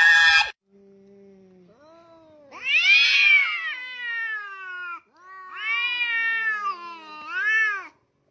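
A loud cry cuts off about half a second in. Then a cat gives two long, drawn-out meows, the first falling in pitch, the second rising and falling twice.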